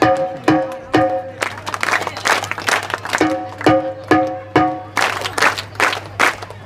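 Parai frame drum played in groups of four ringing strokes, about two a second, answered after each group by a burst of hand claps from a crowd clapping the rhythm back.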